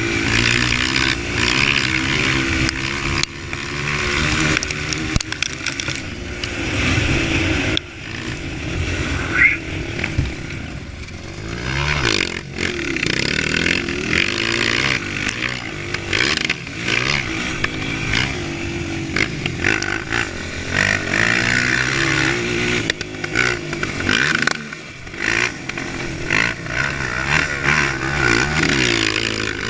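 Honda CRF230 dirt bike's single-cylinder four-stroke engine under way, revving up and down with the throttle, with short drops in revs about eight seconds in and again near the end.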